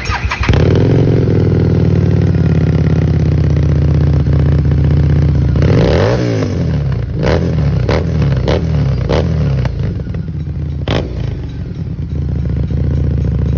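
Harley-Davidson 750's V-twin running through a freshly fitted aftermarket exhaust. It is blipped once about six seconds in, the pitch rising and falling. As the revs drop, a few sharp pops follow about half a second apart, then it settles back to a steady idle.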